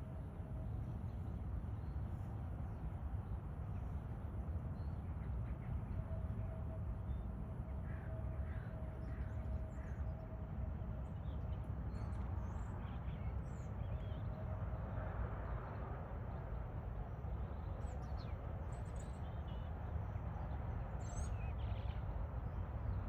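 Scattered short bird calls, chirping now and then over a steady low rumble.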